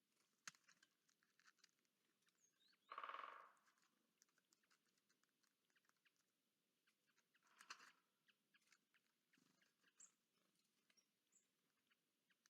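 Birds at a garden bird bath: a loud, harsh call of about half a second comes about three seconds in, and a shorter, rougher one near eight seconds. Faint scattered ticks and clicks run between them.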